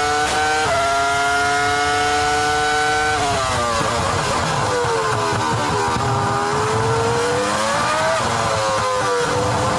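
Formula 1 V10 racing engine heard onboard, at high revs with a quick upshift near the start. About three seconds in the revs fall away as the car brakes and downshifts, then they climb again near the end as it accelerates.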